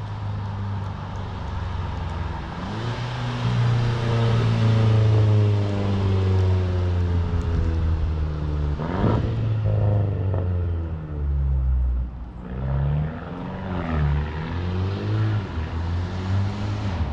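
Straight-piped 2018 Mercedes-Benz CLA250's turbocharged four-cylinder engine and exhaust pulling hard, its pitch climbing and dropping several times through gear changes and lifts off the throttle. A brief sharp noise comes about nine seconds in.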